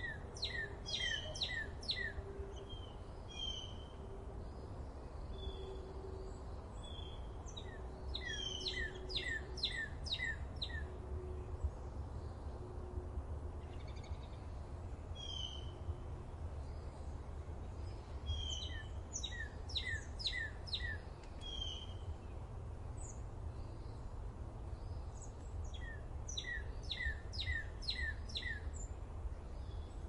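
A songbird singing a repeated phrase about every eight to nine seconds. Each phrase is a quick run of five or six high notes, each sweeping downward, with short chirps between, over a steady low rumble of forest ambience.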